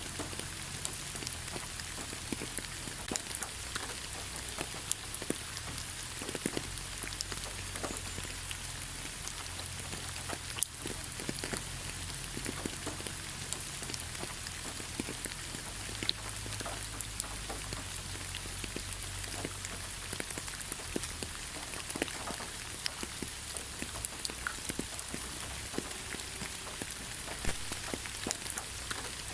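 Steady rain falling, with individual drops ticking sharply here and there over an even hiss.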